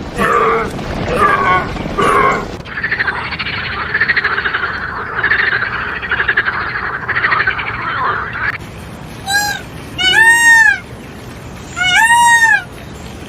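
Frogs croaking in a dense, rapidly pulsing chorus. From about nine seconds in, four short rising-and-falling animal calls follow.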